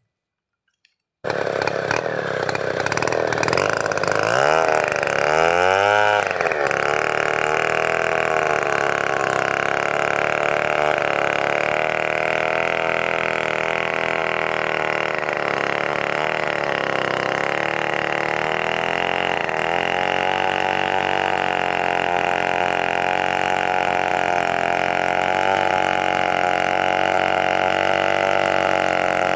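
Chainsaw engine cutting in suddenly about a second in, revving up and down a few times, then running steadily at high speed with slight dips in pitch.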